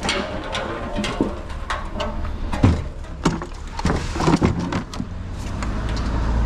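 Irregular knocks and clanks of scrap metal junk being handled and loaded, with one loudest knock a little under three seconds in. A low engine rumble swells near the end.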